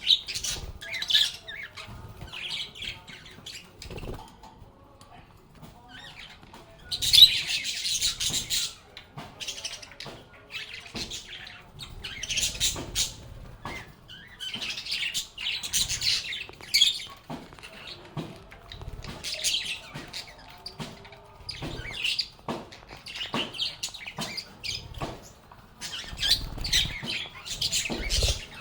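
Lovebirds chirping and squawking in repeated bursts of a second or two, the loudest about seven seconds in.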